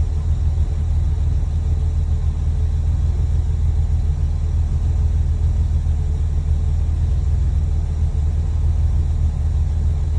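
Porsche 993's air-cooled flat-six running steadily with a deep, even rumble and no change in revs. The engine has a vacuum leak at an intake runner.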